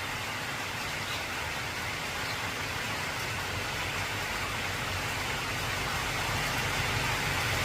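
Heavy rain drumming steadily on an old corrugated zinc (tin) roof, with a low rumble of thunder swelling toward the end.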